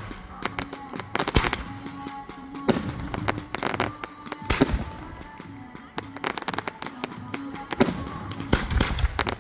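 Fireworks display: aerial shells and comets going off in a string of sharp, irregular bangs and crackles, with music playing underneath.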